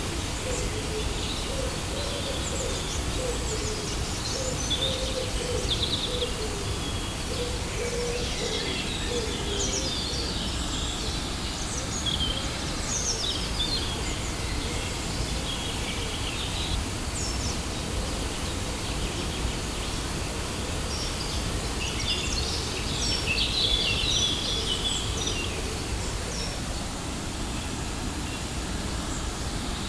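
Waterfall rushing in a steady, even roar, with birds chirping and calling over it. The chirps are busiest in the first half and again a little after twenty seconds in.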